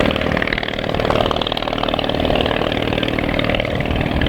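Small motorcycle-type engine of a 1923 vintage ultralight aircraft running steadily with a rapid, buzzing beat.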